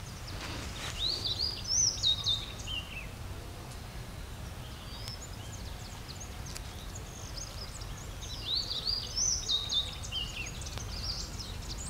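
A songbird sings the same short phrase twice, a quick run of high notes that rise and then step down, about a second in and again past the middle, over a low steady rumble.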